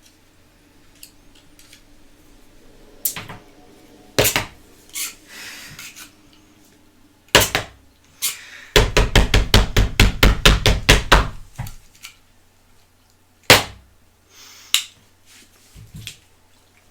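Knocks and clacks of hard objects being handled and set down, with a quick run of about fourteen taps, about six a second, in the middle.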